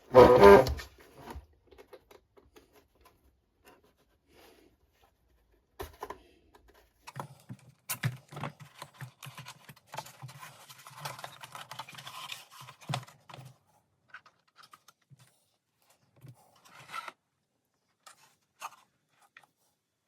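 Hand-work on a wooden model boat hull: scattered small clicks, taps and scrapes as parts are handled and pinned into place. A loud, short rasp opens it, and a longer stretch of rattling and scraping comes in the middle.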